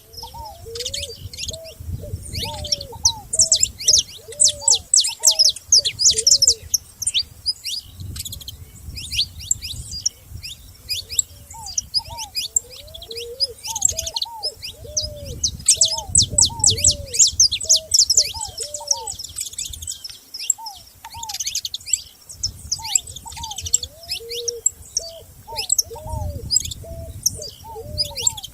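A chorus of many small songbirds chirping and trilling densely and high-pitched, with a lower bird repeating short, arching whistled notes in phrases of a few seconds.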